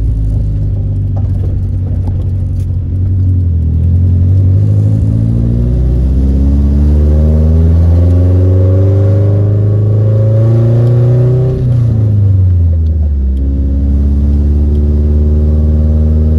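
Nissan 240SX engine heard from inside the cabin while driving. Its pitch climbs steadily for several seconds, falls quickly about twelve seconds in, then holds steady at a lower pitch.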